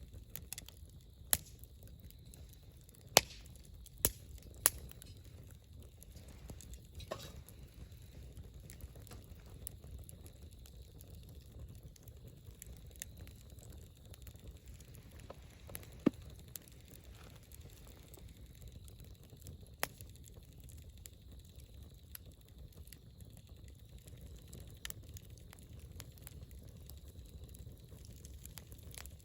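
Wood fire burning with a low steady rumble and scattered sharp crackling pops from the burning wood. There are several pops in the first five seconds, a loud one about sixteen seconds in, and another a few seconds later.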